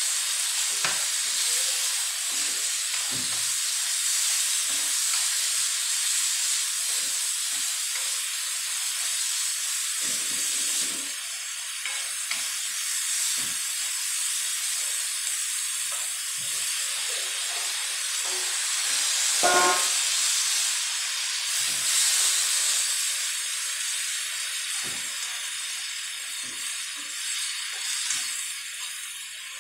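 Ground pork and green chilies sizzling with a steady hiss as they are stir-fried in a hot wok, with scattered light knocks and scrapes of the spatula against the wok.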